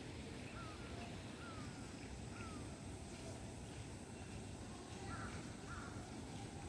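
Faint bird calls, each a short falling note: three in the first few seconds and two more, slightly louder, near the end. Under them runs a steady low background rumble.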